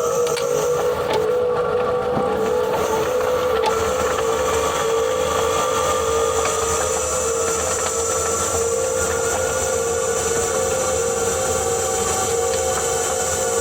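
2021 Ford Kuga PHEV's HF45 e-CVT transmission running, picked up by mics mounted on the gearbox: a steady whine with fainter higher tones over drive noise, the weird rotational noise that appeared after a flywheel change. The owner suspects it comes from motor-generator 1 inside the gearbox.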